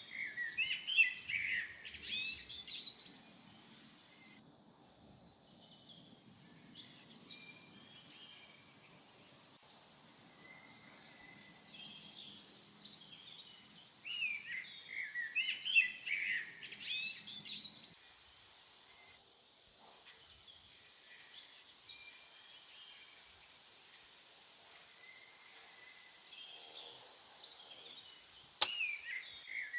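Songbirds singing, with quick high chirps and trills. They come in three loud bursts, at the start, about halfway through and near the end, with fainter calls in between.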